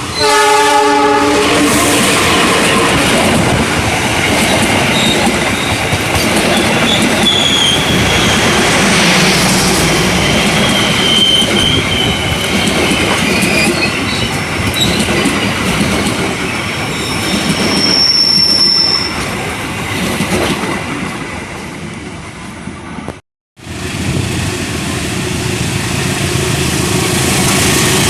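A train horn sounds briefly at the start, then a passenger train passes close by, its wheels clattering and squealing high over the rails. The sound drops out for a moment about 23 seconds in, then steady train running noise continues.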